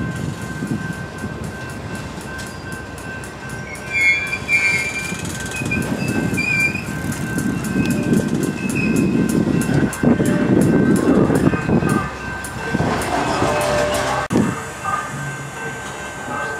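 Freight cars (a gondola, then a tank car) rolling past on the rails with a steady rumble and wheel clacks, the rumble swelling in the middle. Thin, high wheel squeals come in about four to seven seconds in.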